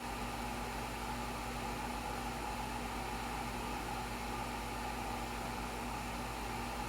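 Steady, unchanging hum and hiss with a few constant tones, like a small motor or fan running.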